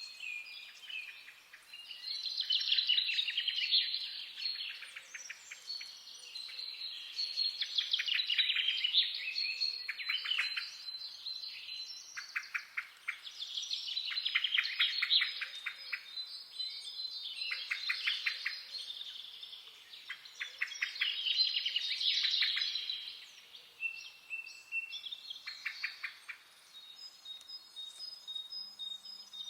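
Songbirds singing: rapid trilled phrases repeated every couple of seconds, with thin, high whistled notes held between them.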